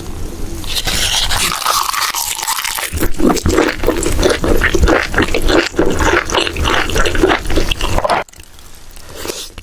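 Close-miked eating sounds: wet chewing and smacking with a dense run of small crackles and clicks. It drops away briefly near the end.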